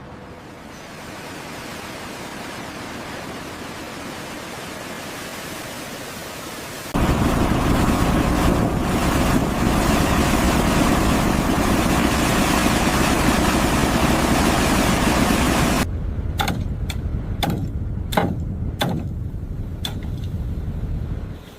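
Steady machinery noise that suddenly becomes much louder about seven seconds in, then drops back and gives way to a series of sharp knocks and clanks over the last few seconds.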